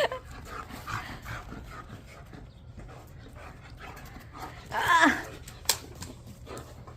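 German Shepherd whining: one short, pitched whine about five seconds in that bends and falls at its end, followed by a sharp click.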